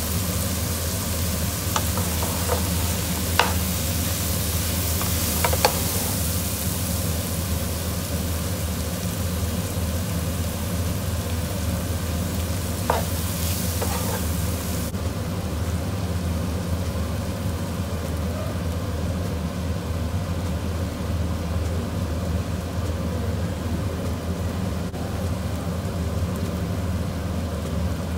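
King prawns frying in a non-stick pan, sizzling steadily while a wooden spatula stirs and turns them, with a few sharp knocks of the spatula on the pan in the first half. The high hiss of the sizzle drops back about halfway through, over a steady low hum.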